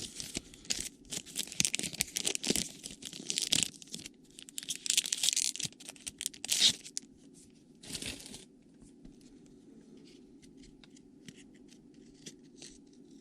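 A trading card pack wrapper being torn open and crinkled, in repeated loud rustling bursts over the first several seconds. After that come quieter small ticks and rustles of the cards being handled.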